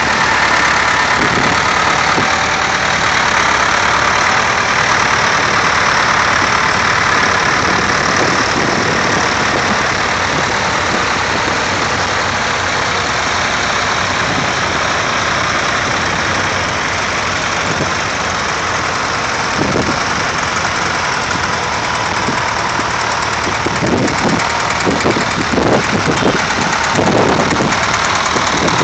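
Vintage tractor engines running, a steady loud clatter, with a run of irregular low knocks in the last few seconds.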